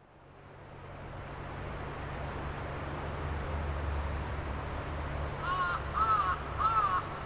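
A crow cawing three times in quick succession near the end, over a steady low outdoor rumble that fades in at the start.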